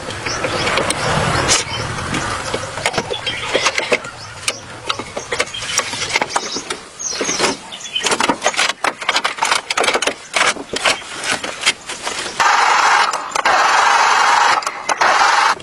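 A rapid run of sharp clicks and knocks from workshop repair work, then a steady hiss for about three seconds near the end.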